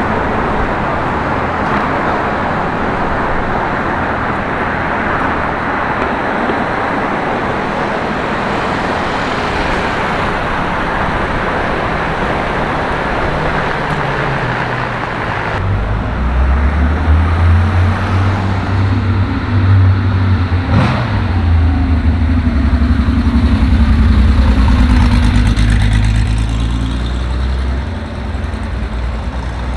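Busy road traffic with a steady wash of passing vehicle noise. About halfway through, a nearby vehicle engine comes in with a loud, low, steady drone that lasts to the end.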